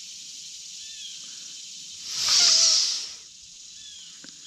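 Steady high insect chorus with short chirps now and then, cut across in the middle by a loud hiss lasting about a second.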